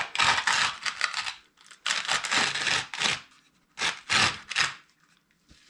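An object being scraped and slid into place under a motorcycle's tyre to prop it up. There are several rough scraping rustles: a long one in the first second and a half, another around two to three seconds in, then two short ones near four seconds.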